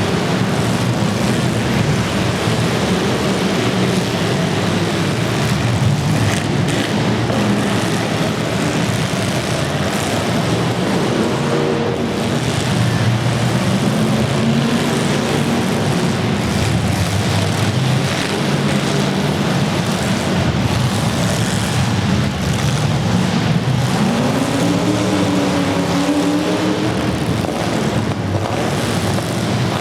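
Demolition derby cars' engines running loudly, with engines revving up and down a few times over a constant din.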